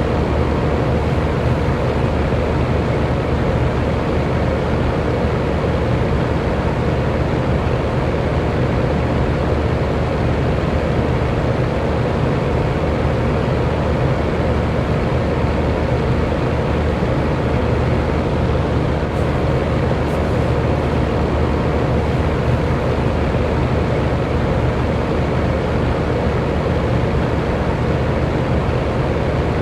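Electric fan running steadily: a constant low whoosh of moving air with a faint motor hum.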